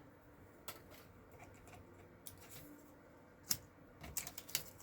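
Scattered light clicks and taps of craft supplies being handled on a desk, with one sharper click a little past halfway and a quick cluster of taps near the end.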